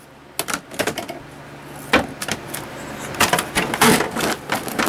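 Vacuum cleaner nozzle worked over a laptop keyboard: irregular clicks and clatters over a low steady hum, as keys are knocked and one is sucked off.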